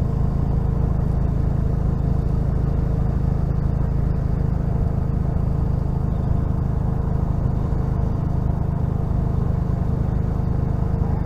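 The 2005 Dodge Neon's 2.0-litre single-cam four-cylinder engine idling steadily while the race car sits stationary, heard on board.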